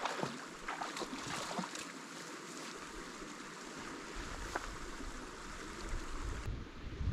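Running brook water, a steady rushing hiss, with a few light clicks in the first couple of seconds.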